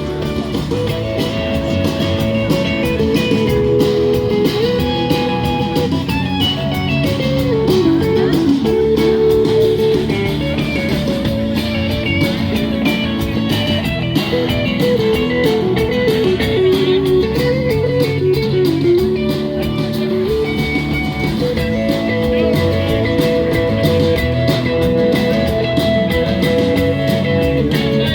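Live band playing an instrumental break: an electric guitar solo with bends over a steady rhythm section.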